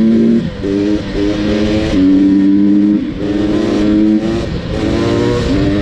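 Two-stroke dirt bike engine accelerating hard through the gears. The note holds and climbs, then briefly drops at each shift, about once a second.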